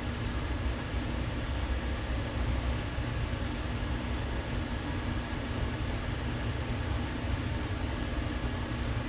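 Steady low machine hum with hiss and a faint constant tone, unchanging throughout.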